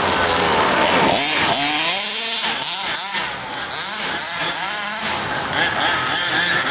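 Several RC model buggies racing, their small motors revving up and down in overlapping high-pitched whines.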